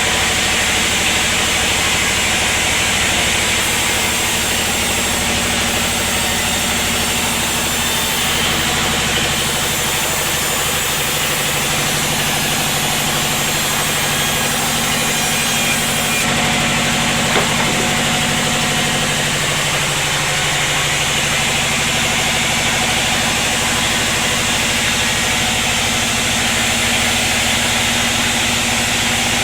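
Sawmill machinery running steadily: an engine with the saw going. There is a single sharp click about 17 seconds in.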